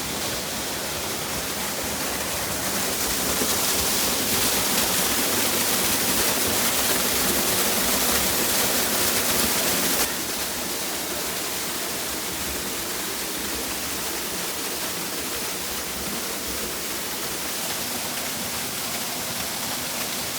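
Waterfall rushing, a steady dense roar of falling water. It swells louder from about three seconds in, then drops suddenly to a lower, steady level about ten seconds in.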